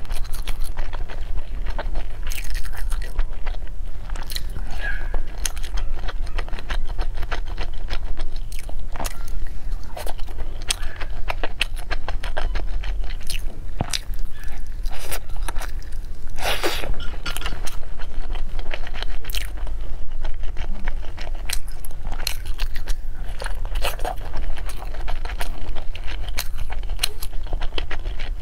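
Close-miked eating: a person biting and chewing, with a steady run of wet mouth clicks and smacks.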